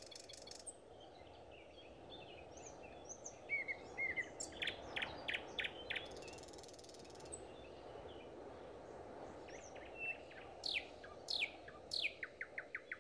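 Small birds chirping outdoors: scattered short chirps, several quick downward-sweeping calls a little after ten seconds, and a fast run of short notes near the end. A brief high buzzy trill about six seconds in, over a faint steady background hum.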